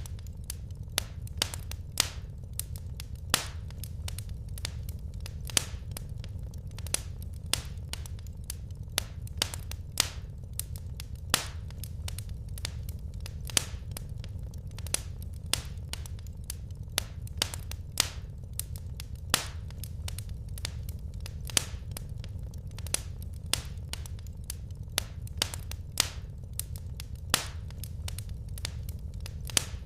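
Wood fire burning in a fireplace: irregular sharp crackles and pops, a couple a second with some louder ones, over a steady low rumble.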